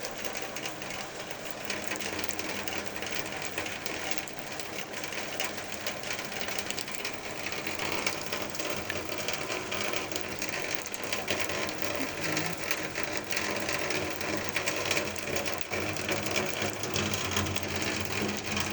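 Steady rain falling, a dense, continuous ticking of drops striking surfaces.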